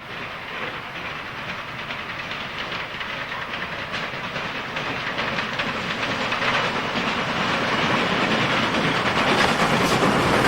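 Heritage railway train approaching along the line, growing steadily louder, with the clickety-clack of wheels over rail joints becoming clearer near the end.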